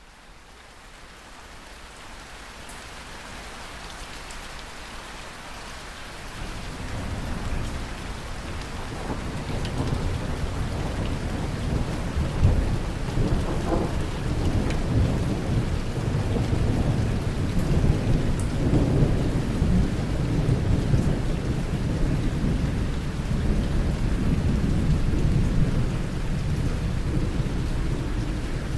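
Rain falling steadily, fading up from near silence at the start. About six seconds in, a long, low rumble of rolling thunder sets in and keeps rolling, swelling several times.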